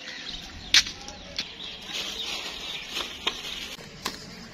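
Birds chirping, with several short sharp clicks or taps scattered through.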